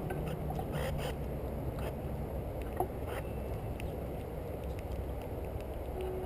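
Steady low outdoor rumble on the camera's microphone, with a few faint clicks and a short faint high note.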